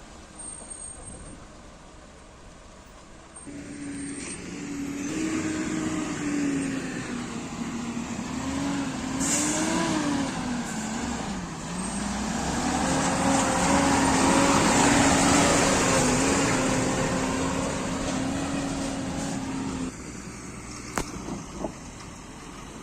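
Heavy diesel engine of construction machinery working under load, its pitch wavering up and down as it labours. It swells to its loudest about two-thirds of the way in, then drops away suddenly near the end, leaving a lower engine hum and a couple of sharp clicks.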